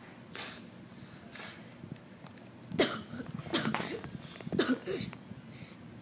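A child's voice making acted sounds of pain for a wounded toy character: short breathy bursts like coughs early on, then several brief groans that fall in pitch in the second half.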